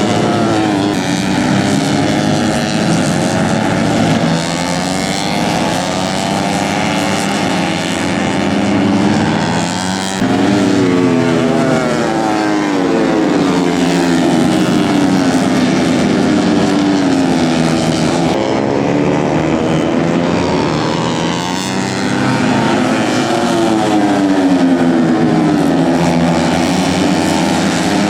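Tuned 130 cc four-stroke underbone race motorcycles running hard on track, engines climbing in pitch and dropping back at each gear change, several bikes overlapping.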